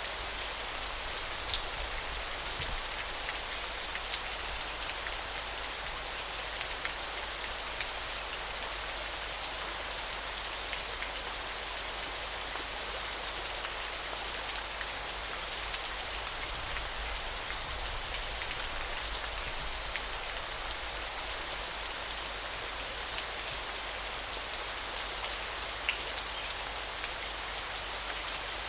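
Steady rushing of flowing river water. Over it a high, thin insect buzz swells for several seconds about a fifth of the way in, and in the last third comes back in repeated trains of about a second each with short gaps.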